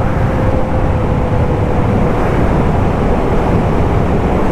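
Suzuki motorcycle running steadily at cruising speed, its engine under a constant rush of wind and road noise.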